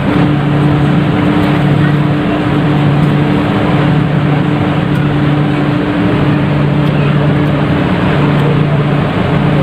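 A passenger ship's engines drone steadily on board, a loud low hum with a steady pitch over a dense rushing noise.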